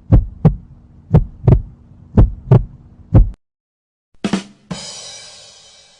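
Heartbeat sound effect: paired lub-dub thumps about once a second over a low hum, stopping after a few beats. After a pause comes a sharp hit, then a long fading crash.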